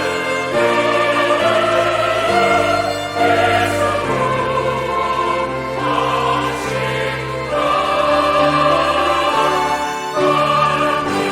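Church choir singing a hymn anthem with piano and pipe organ accompaniment, full voices holding sustained chords.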